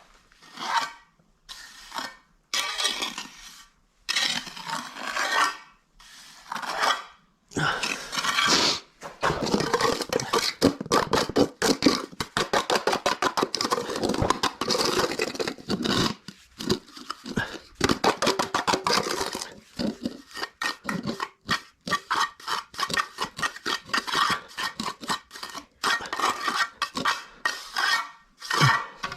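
Metal tool, most likely a trowel, scraping and clinking through wet cement mortar. The strokes are separate at first, then from about eight seconds in come fast and nearly continuous.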